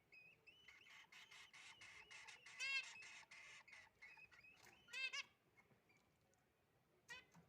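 Nestlings chirping rapidly in a fast run of high, short calls as they beg to be fed, fading out after about four and a half seconds. Three louder calls cut in along the way, the loudest about a third of the way through.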